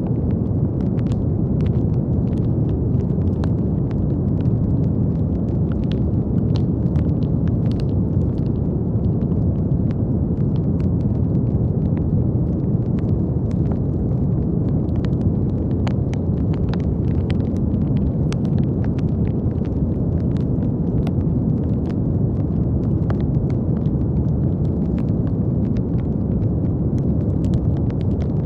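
Steady brown noise: a deep, even hiss weighted toward the low end, with faint scattered clicks on top.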